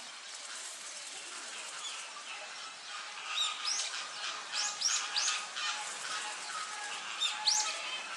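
Small birds chirping: a quick run of short, sharp, high calls starting about three seconds in, with another burst near the end, over steady outdoor background noise.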